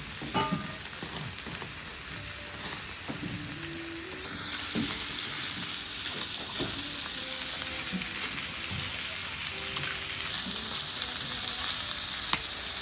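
Campfire barbecue: a steady sizzling hiss with scattered sharp pops and crackles from the fire and the food cooking over it.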